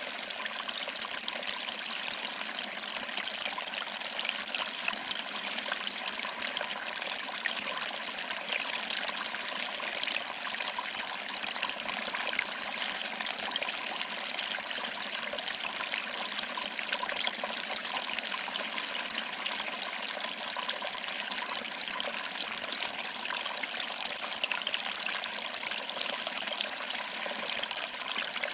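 Small waterfall trickling over rocks and splashing into a pool below: a steady, unbroken rush of water.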